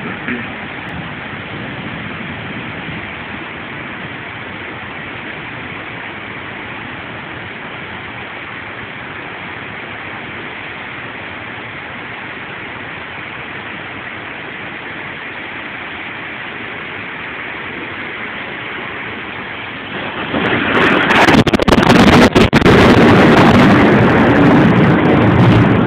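Steady hiss of falling rain. About twenty seconds in, a much louder, harsh rushing noise sets in suddenly and stays, crackling and distorting.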